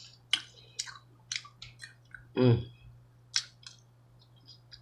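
Close-miked chewing of a mouthful of steak tips and loaded baked potato: a string of wet mouth clicks and smacks, with a brief closed-mouth "mm" about halfway, over a steady low hum.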